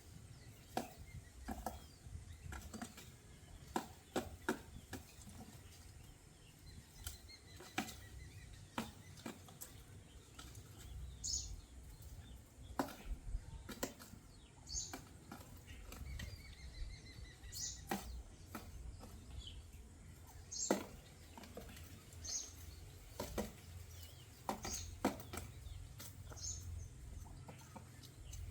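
Birds moving about, with wings flapping, many sharp taps and clicks, and short high chirps repeated every second or two from the middle on.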